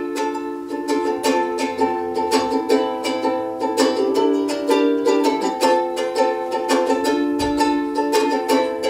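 Instrumental song intro on a strummed acoustic string instrument, chords struck in a quick, even rhythm, with no singing yet.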